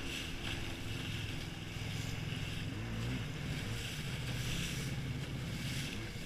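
Jet ski engine running under way, with water rushing and wind noise on the microphone; the engine's pitch bends briefly about halfway through.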